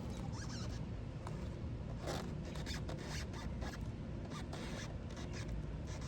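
Scratchy rubbing and small irregular clicks of hands working a tire plug kit: the insertion tool and sticky plug strip scraping and handled close to the microphone.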